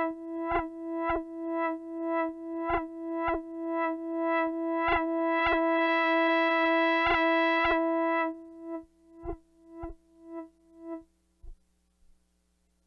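Minimal electronic music: a synthesizer holds one bright droning note that pulses about twice a second, each pulse with a short click and low thump. The drone cuts off about eight seconds in, and the pulses fade out over the next few seconds into near silence.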